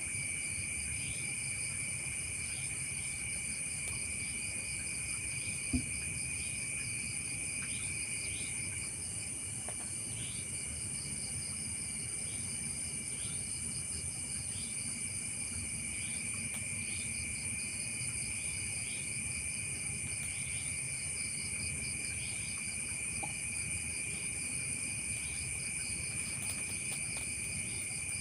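Insect chorus of crickets trilling steadily at several pitches, with a short rising chirp repeating about once a second. One of the trills stops for several seconds in the middle and comes back. A single sharp click sounds about six seconds in.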